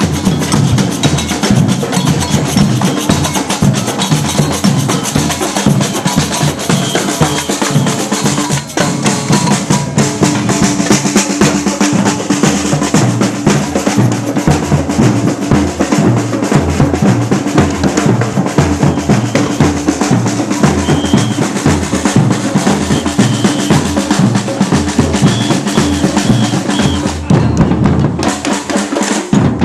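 Drum band playing: snare and bass drums beating a steady rhythm with drum rolls.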